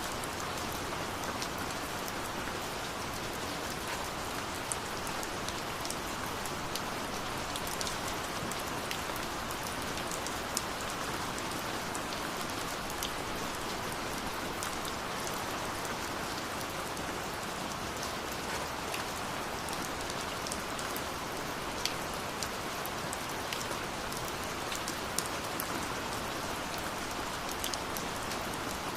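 Steady rush of a waterfall with a wood fire crackling over it in scattered sharp pops.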